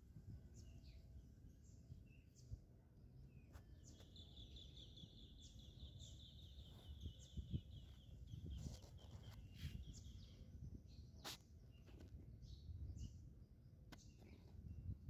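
Faint outdoor ambience: a bird's rapid, even trill starting about four seconds in and lasting some six seconds, with scattered short chirps and a low rumble underneath.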